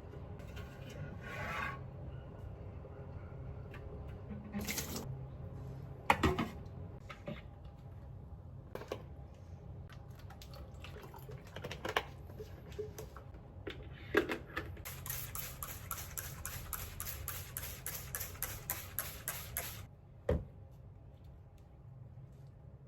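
Kitchen food preparation: scattered knocks and clatters of utensils, a louder knock about six seconds in, then a quick, even run of about five or six taps a second for some five seconds, like a knife chopping on a cutting board.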